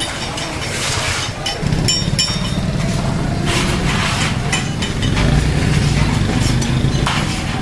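A workshop machine's motor comes up to a steady low hum about a second and a half in, with scattered metal clicks and taps over it, as in small-scale metal tea-kettle making.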